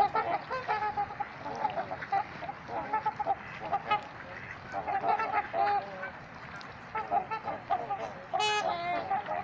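Trumpeter swans calling, a flock of adults and juveniles giving repeated short, horn-like honks that overlap one another, with a louder call near the end.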